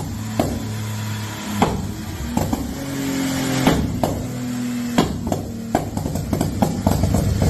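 Toyota Mark X's V6 engine idling through an aftermarket tuning muffler, its pitch shifting slightly, with a dozen or so irregular sharp knocks over it.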